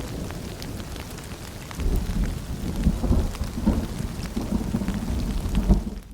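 Steady rain with scattered close drops and a low rolling rumble of thunder that eases, then swells again about two seconds in. The sound cuts out abruptly at the very end.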